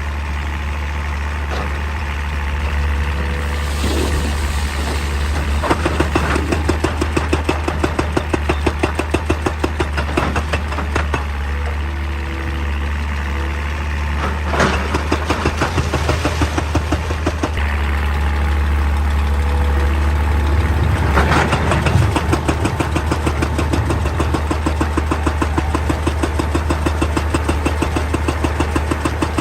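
Excavator's diesel engine running steadily with a constant low hum, with a few sharp knocks of rock or bucket here and there.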